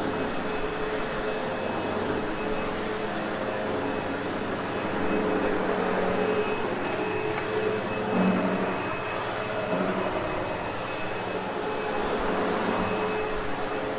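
Sebo X8 upright vacuum cleaner running on carpet: a steady motor whine over a rushing air noise, its loudness rising and falling a little, with a brief louder low hum about eight seconds in.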